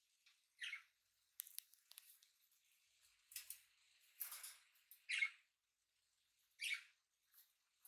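Small pet parrots giving three short, faint chirps, with scattered clicks and scratchy rustling in between.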